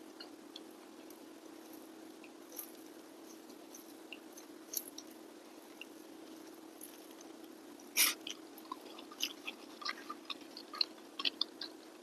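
Close-miked chewing and wet mouth clicks of someone eating rice and fish by hand, sparse at first with one louder click about eight seconds in, then coming more often near the end, over a steady low hum.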